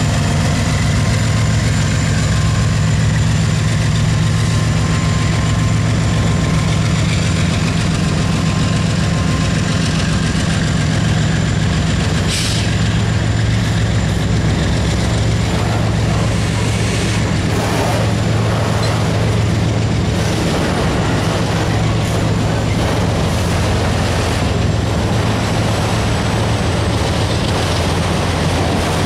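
Autorack freight cars rolling past on steel wheels and rail, over the steady low drone of the Norfolk Southern diesel locomotives (an SD70M and an ES44DC) working under throttle as they pull away. The engine drone eases a little about halfway through while the wheel rumble goes on.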